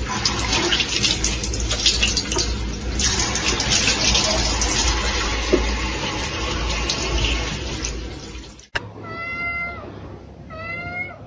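Water running and splashing, a steady rushing noise that cuts off suddenly near the end. A cat then meows twice.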